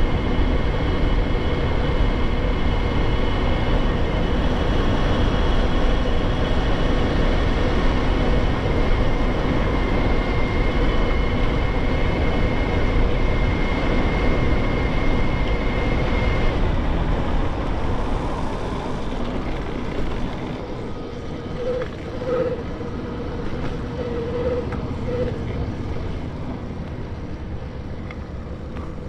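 Electric mountain bike riding with a BBSHD mid-drive motor: a steady rush of wind and tyre noise with the motor's steady whine. About seventeen seconds in, the whine stops and the noise eases off as the bike slows.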